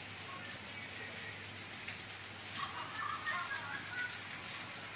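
Steady hiss of rain falling, with a few faint higher sounds about halfway through.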